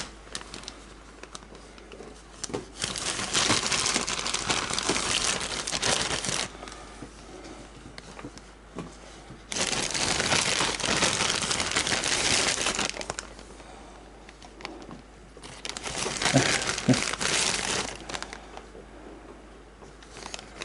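Plastic food packaging crinkling and rustling in three long bursts, as it is handled, with quieter pauses between.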